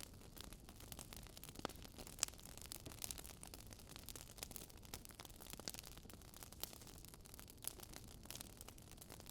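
Burning wood logs crackling softly, with irregular sharp pops and snaps over a low hiss; one pop about two seconds in is louder than the rest.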